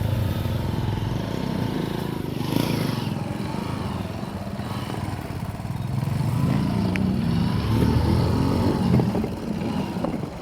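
A motor vehicle engine running, rising in level about six seconds in and easing off near the end.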